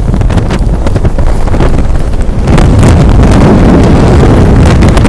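Very loud gale-force wind buffeting the microphone, a heavy low rumble that swells stronger about halfway through.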